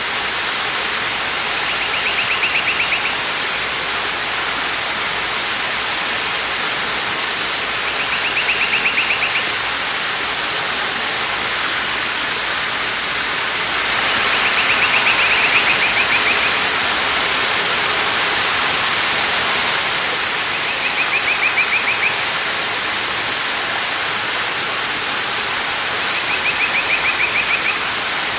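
Waterfall's steady rush of falling water, with a bird's short rapid trill, about a second long, repeated five times roughly every six seconds.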